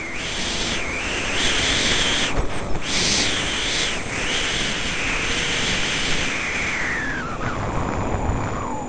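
Yamaha DT200R's single-cylinder two-stroke engine revving hard under way, with two brief dips in the revs about two and a half and four seconds in, then the revs falling steadily over the last two seconds as the bike slows. Wind rushes over the helmet-mounted microphone underneath.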